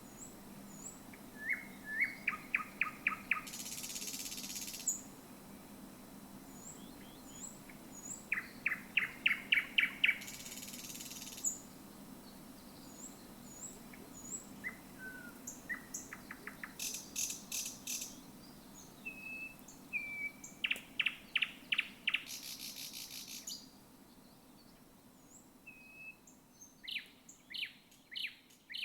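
Thrush nightingale singing. Phrases of about eight rapid, loud repeated notes alternate with harsh, dry rattles and thin, high whistles.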